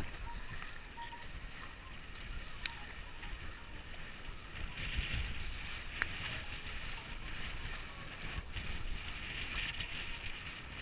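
Wind buffeting the microphone with a steady low rumble, and water rushing along the hull of a small sailboat under way, swelling in two hissing surges of spray about halfway through and near the end.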